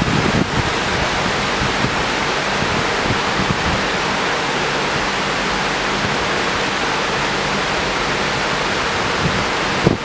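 Steady tropical downpour, rain falling in an even hiss with a faint low hum underneath.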